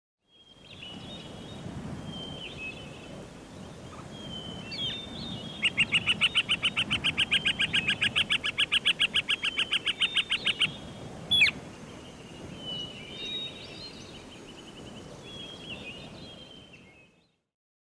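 Birdsong: short high chirps over a soft background hiss, with a fast, even trill of about six notes a second lasting about five seconds in the middle. A single sharp click comes just after the trill.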